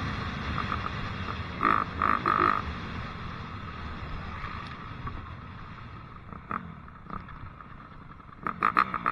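Dirt bike engine with a steady drone that fades, broken by short sharp bursts of throttle about two seconds in and a quick run of them near the end.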